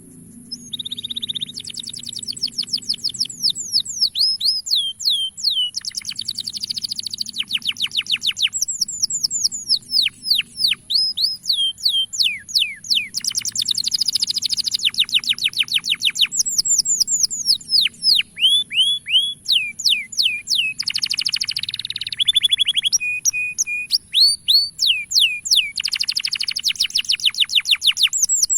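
Male canary singing in long phrases of rapid, downward-sweeping whistled notes and fast trills, with short pauses between the phrases.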